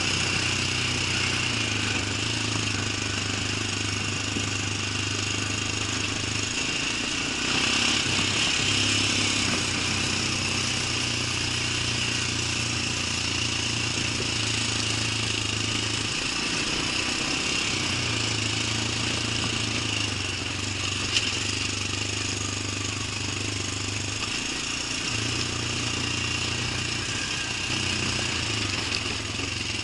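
A machine running steadily: a low hum that drops out briefly three times, over a constant hiss.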